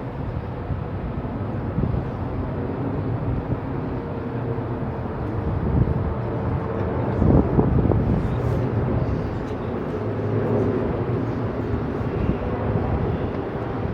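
Outdoor city ambience: a steady rumble of traffic with a low hum, swelling louder for a moment about seven seconds in.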